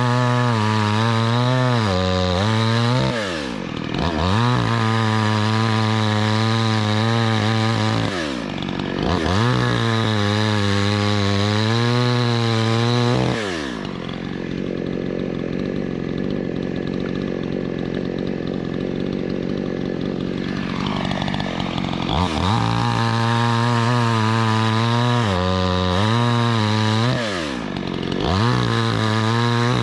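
Two-stroke gas chainsaw engine running at high revs with a slightly wavering pitch, briefly dropping and climbing back several times. About halfway through it falls to a lower, steadier speed for roughly eight seconds, then revs up high again.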